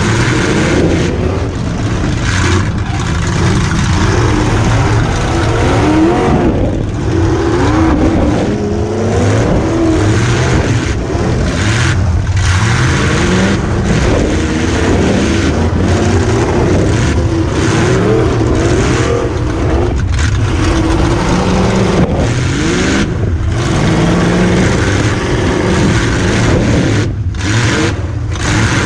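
V8 engine of a demolition derby car revving up and down over and over as it drives, heard from inside the car.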